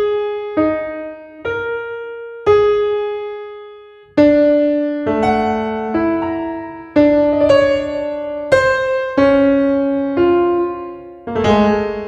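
Slow solo piano: single notes struck one after another, each left to ring and fade, then fuller chords from about four seconds in.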